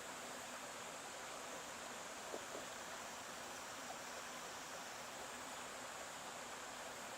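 Stream water running steadily, an even rushing with a couple of small splashes about two and a half seconds in.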